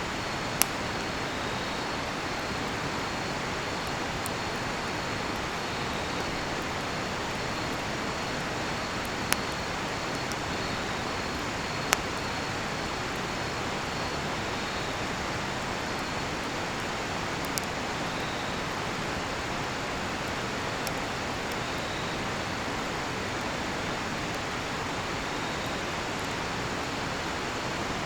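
A river rushing steadily, with a handful of sharp pops from burning cedar firewood, the loudest about a second in and around the middle. Crickets chirp faintly and high-pitched throughout.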